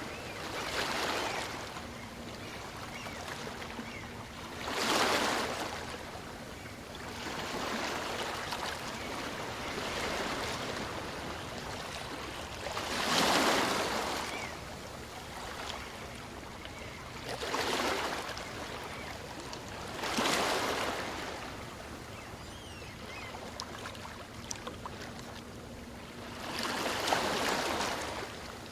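Small waves on a calm sea washing onto the shore, each surge swelling and ebbing every few seconds over a steady wash of water.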